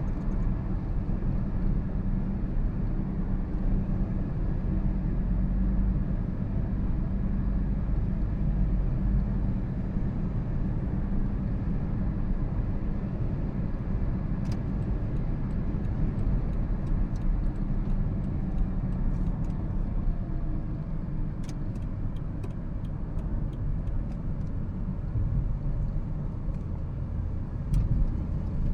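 2013 Toyota Prius on the move: a steady low rumble of road and drivetrain noise, with a few faint ticks in the second half.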